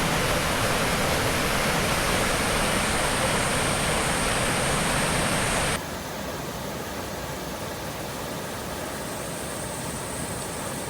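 Steady rush of flowing creek water, with a thin steady high whine above it. The rush drops suddenly to a quieter level a little past halfway.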